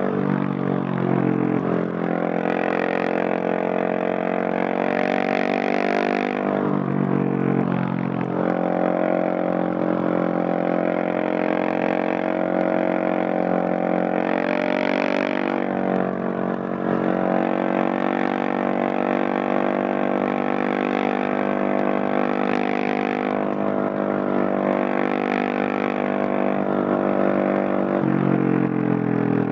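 Husqvarna 701 Supermoto's single-cylinder engine running through a Leo Vince Nero stainless exhaust while riding, mostly at a steady pitch. A few times the engine note drops briefly and then climbs back, as the throttle or gear changes.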